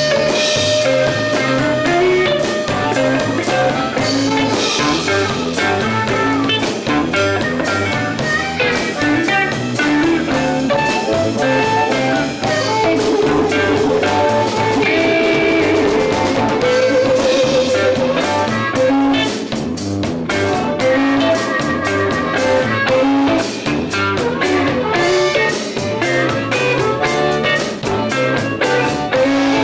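Live instrumental blues band playing: electric guitar and drum kit keeping a steady beat, with held, wavering lead notes from a blues harmonica.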